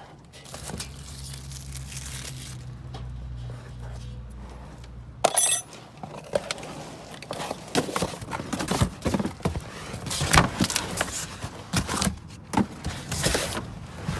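Small metal lock parts and hardware clinking and rattling as they are rummaged through by hand. A low steady hum runs for about the first five seconds, then a loud sharp metallic clank, followed by a busy run of irregular knocks and clatters.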